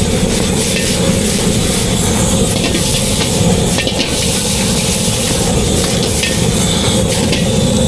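Street-food cooking noise: a steady low rumble with scattered clinks and taps of utensils.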